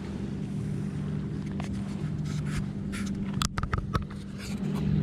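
Steady low drone of a motorboat engine running, with a few short clicks and scrapes about three and a half seconds in.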